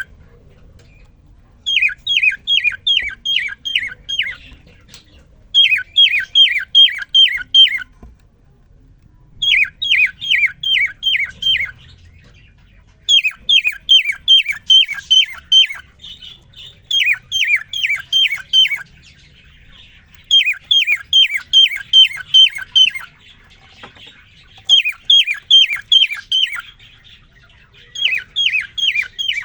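Male cockatiel singing a courtship song to a female: repeated loud phrases of six or seven quick, sharp notes, each note sliding down in pitch, a phrase every few seconds with short pauses between.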